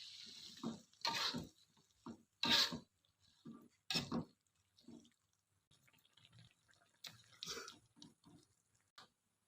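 Kitchen work with water: a series of separate short splashing and handling sounds, the loudest about two and a half and four seconds in.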